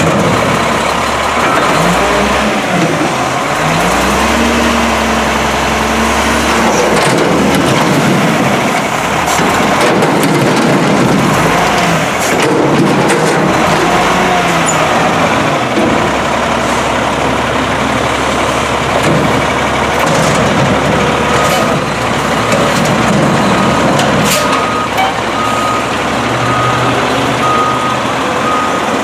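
Volvo WXLL front-loader garbage truck's diesel engine revving up, holding, and dropping back, then running on with scattered hisses and clicks. A reversing beeper starts beeping about once a second about two-thirds of the way through.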